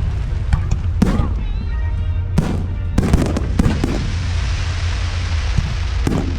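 Aerial fireworks going off in quick succession: sharp bangs, several close together around the middle, then a long hissing crackle of crackling stars before another bang near the end.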